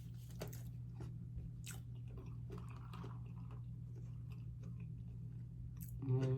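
A person chewing and biting food close to the microphone, with small crunches and wet mouth clicks scattered through, over a steady low hum. A short voiced sound comes right at the end.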